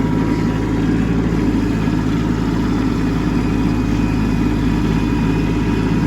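Kubota B2601 compact tractor's three-cylinder diesel engine running steadily under light load as it pushes snow with a rear blade.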